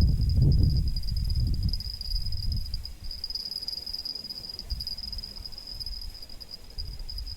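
Insects trilling in a steady high-pitched drone. A loud low rumble in the first couple of seconds fades away.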